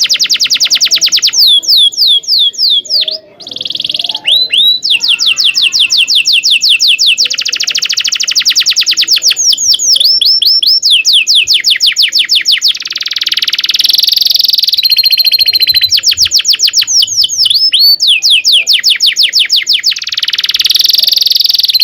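Domestic canary singing a long, loud song of rolling trills: fast runs of repeated down-sweeping notes, changing to a new trill every second or two, with a brief held whistle near the middle.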